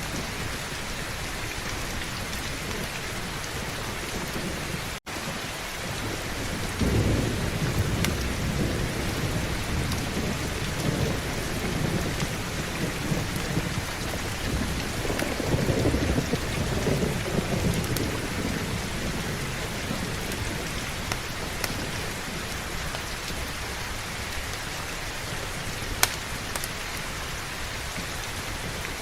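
Steady heavy rain with rolling thunder. Low rumbles build about a third of the way in and again around the middle. There is a momentary gap in the sound early on and a single sharp crack near the end.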